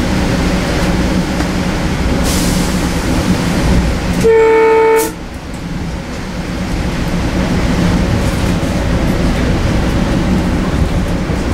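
Steady rumble of a Metro-North M2 electric multiple-unit train riding the rails, with one short, loud, single-note train horn blast about four seconds in.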